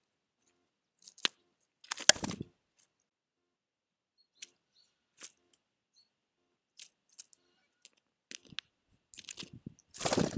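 Irregular crunching, cracking and clicking of food being bitten and picked over at a feeder, with a louder crunch about two seconds in and a longer one near the end.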